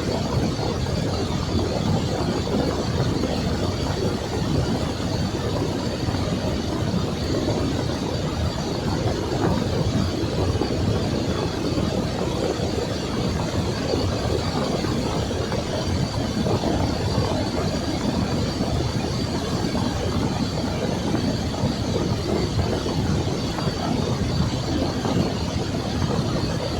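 Steady rumble of a vehicle driving, its tyres and engine running on an even note, with a faint steady high whine above it.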